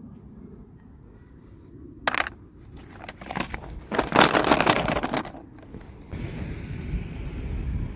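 Plastic packaging crinkling and rustling as a toy is unboxed. There is a short burst about two seconds in and a longer, louder stretch of crackling from about three to five seconds in, over a low steady rumble.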